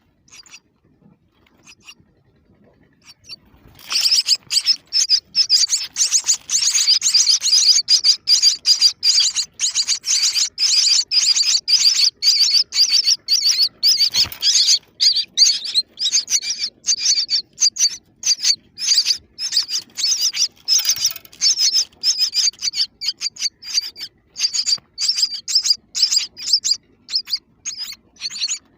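Baby birds chirping: a dense, fast stream of high, thin chirps that starts suddenly about four seconds in and keeps going.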